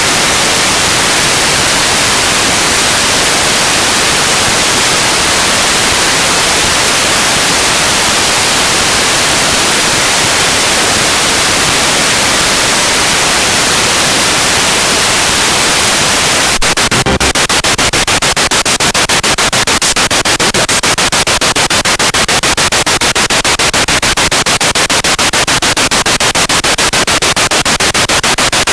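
Spirit box radio sweeping across stations: a loud, steady hiss of static that, a little past halfway, turns into a rapid, even stutter of many short breaks a second as the sweep chops through the band.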